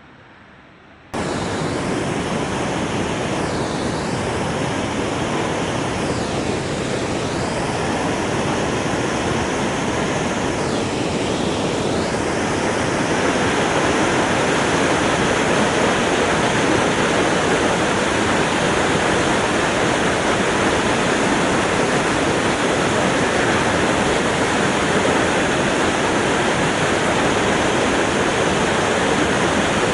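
Waterfall rushing at high flow, swollen by very heavy rain, as a loud, steady wash of water noise that cuts in abruptly about a second in.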